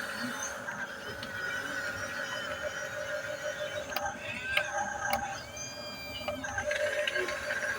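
Small electric motors and gearbox of a remote-control toy bulldozer whining steadily, with a few sharp clicks about four and five seconds in.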